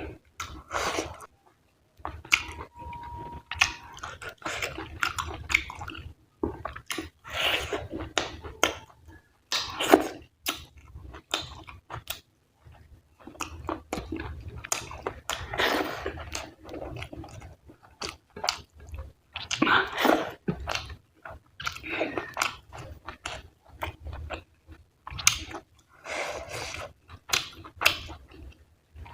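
Close-miked chewing and wet smacking of rice and fatty mutton curry, with occasional crunchy bites, in irregular bursts.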